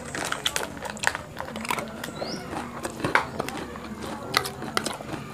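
Close-up chewing and crunching of rujak, chunks of pineapple and guava with fried peanuts, with sharp clicks of a metal spoon against a plastic plate. A short high rising chirp sounds about two seconds in.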